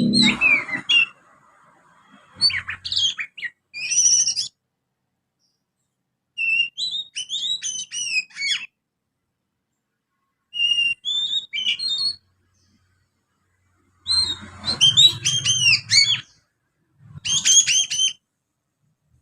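Young Oriental magpie-robin giving rapid, chattering 'ngriwik' calls mixed with mimicked tree-sparrow chirps. The song comes in six short bursts of sweeping notes, with silent gaps between them.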